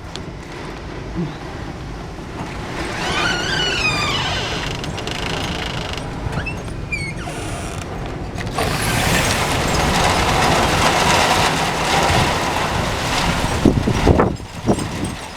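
Strong thunderstorm wind and rain rushing over the microphone, growing louder about eight seconds in. A brief wavering squeal sounds about three seconds in.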